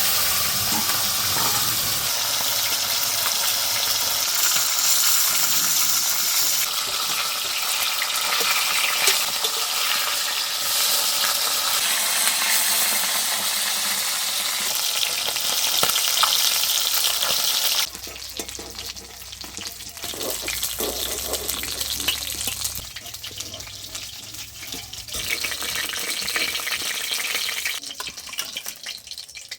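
Pieces of katla fish frying in hot oil in a kadai, sizzling loudly. About two-thirds of the way through, the sizzle drops to a quieter level.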